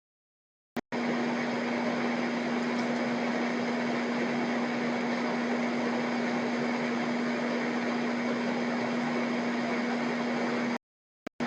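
A steady hum with a constant hiss behind it, like a running fan or air-conditioning unit. It drops out to dead silence for about a second at the start and again briefly near the end.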